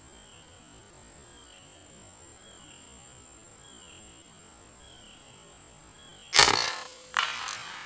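A single air rifle shot about six seconds in, a sharp crack, followed less than a second later by a second, quieter crack. Under it runs a steady high-pitched drone with a faint short call repeating under a second apart.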